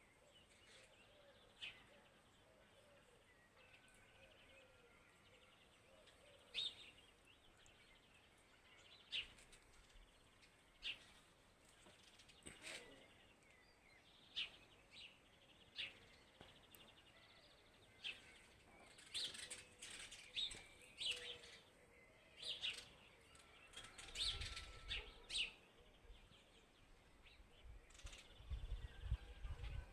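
Birds chirping: short, high calls every second or two, becoming busier in the second half, over faint background. A low rumble comes twice near the end.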